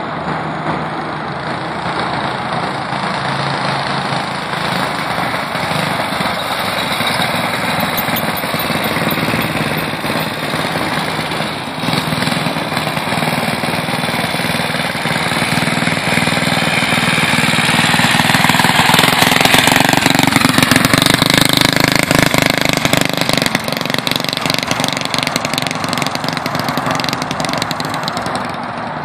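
Mini bike's small single-cylinder engine running as it is ridden, growing louder as the bike comes closer about two-thirds of the way through, then easing off as it moves away.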